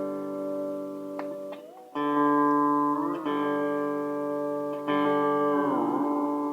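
Electric guitar chords played through an analog delay pedal, each chord ringing and fading before the next is struck, about three more times. The pitch warbles and bends briefly around the middle and again near the end.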